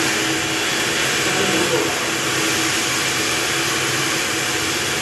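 Water pressure test pump running steadily: a constant motor hum with a wide hiss over it.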